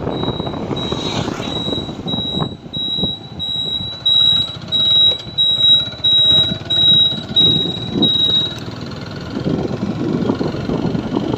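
TVS Apache 4V motorcycle riding along, its engine and rushing wind on the microphone making a rough, uneven rumble. A steady high whine runs over it, pulsing from about four seconds in and cutting off a little after eight seconds.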